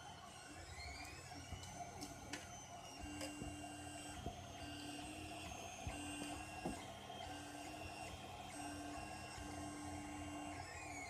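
Tronxy XY 3D printer's stepper motors running during a print. They give off whining tones that jump to a new pitch every second or so as the head changes moves, with a few short clicks. Near the start and the end the tones glide up and down as the motors speed up and slow down.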